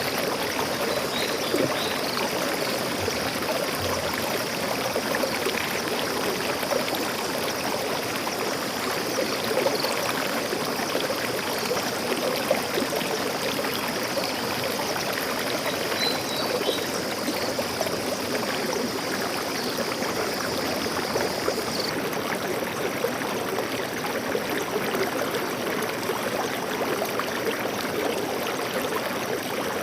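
Stream water flowing steadily, a constant rush of running water.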